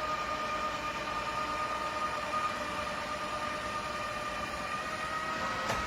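eufy Omni C20 robot vacuum running, a steady motor whine over a hiss, with a single click near the end.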